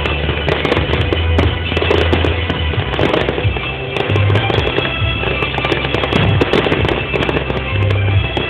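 Fireworks display: many sharp bangs of bursting shells in quick succession, over music with a steady low bass.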